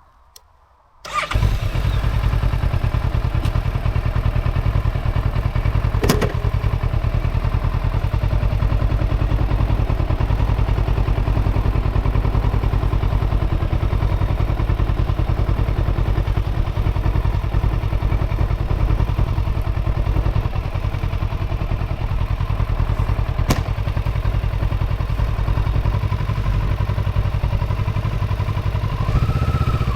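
Kawasaki Versys 650's parallel-twin engine starting about a second in, then running steadily.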